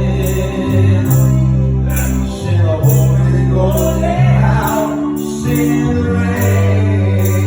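Live gospel praise band music with a heavy bass line and a steady percussion beat, and a voice singing briefly in the middle.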